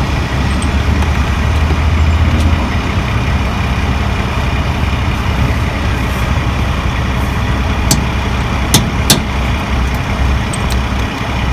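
Steady low rumble of motor vehicles, with three sharp clicks a little after eight seconds in.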